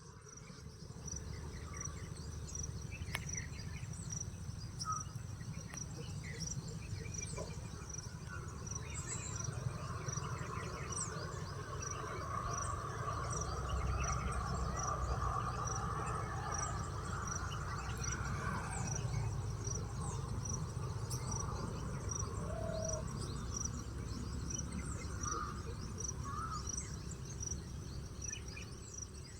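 Outdoor ambience: an insect chirping steadily in a high, even pulse about twice a second, with scattered short bird chirps over a steady low rumble.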